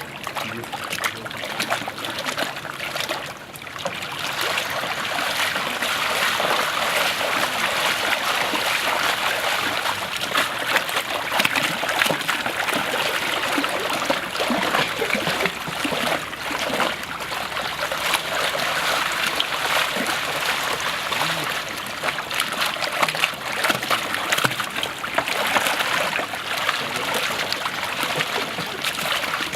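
Continuous splashing and sloshing of water as water puppets are pushed through the stage pool in a boat race.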